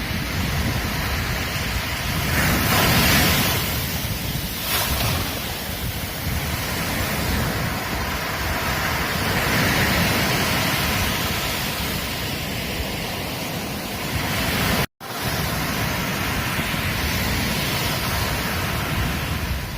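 Ocean surf washing onto a beach in a continuous rushing roar, swelling as waves break about three seconds in and again around ten seconds. The sound cuts out completely for a split second about fifteen seconds in.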